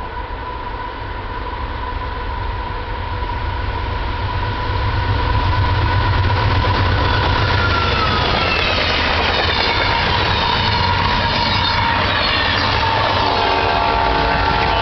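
A train passing close by: a heavy low rumble builds over the first five seconds and then holds steady. Steady high tones run through it, and from about eight seconds in a set of high tones slides downward in pitch.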